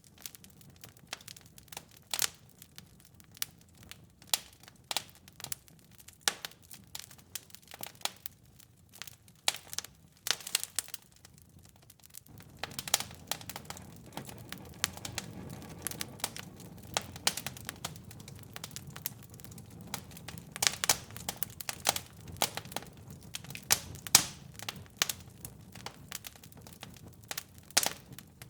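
Wood fire in a fireplace crackling, with irregular sharp pops and snaps. Partway through, a soft low rush of flames joins the crackle.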